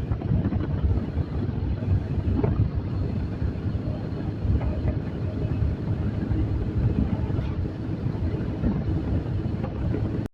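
TVS Apache RTR motorcycle riding steadily, its engine and road rumble mixed with wind noise on the microphone.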